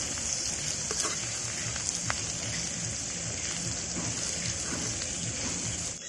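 Stuffed small brinjals frying in oil in a kadhai: a steady sizzle, with a couple of light clicks of a metal spatula against the pan.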